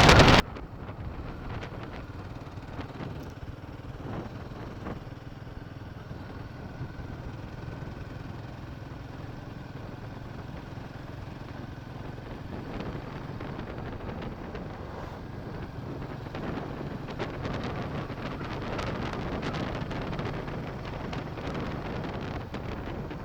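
Motorcycle being ridden along, its engine and road noise steady, growing a little louder in the second half. Loud wind noise on the microphone cuts off suddenly about half a second in.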